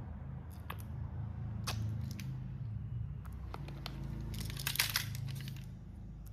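Model train running on its track: a steady low hum with scattered sharp clicks, and a short burst of crackling about four and a half seconds in.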